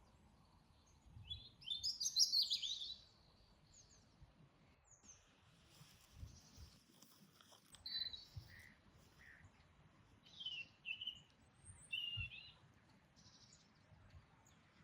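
Songbirds chirping and singing: a loud run of quick chirps about a second in, then shorter calls every couple of seconds.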